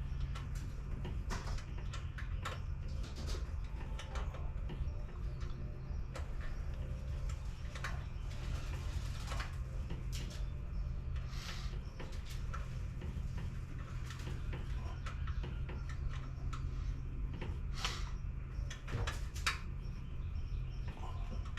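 Scattered light clicks and knocks of hand tools and parts being handled while working in a car's engine bay, over a steady low hum.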